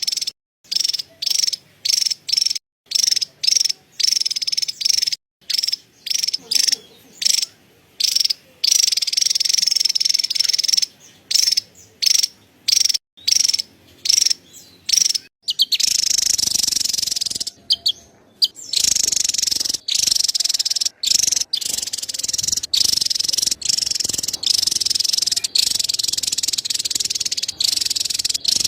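Javan tesia giving its high-pitched chattering call, in short repeated bursts with brief gaps, running on almost without a break from about halfway.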